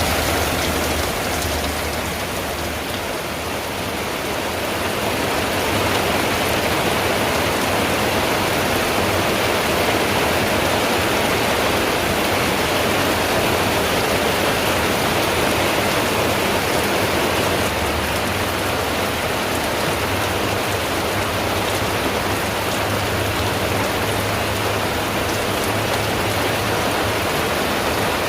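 Steady rain drumming on a tin roof, a dense even hiss that eases slightly a few seconds in.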